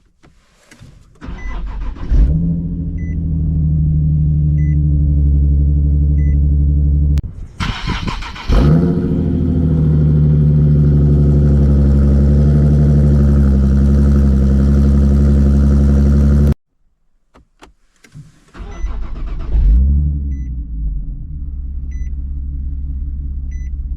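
Nissan 370Z's 3.7-litre V6 through a Motordyne Shockwave exhaust with ART pipes, started three times. Each time the starter cranks for about a second, the engine catches with a short rev flare and settles into a steady idle, and then the sound cuts off abruptly. A faint chime beeps about every second and a half during the first and last idles.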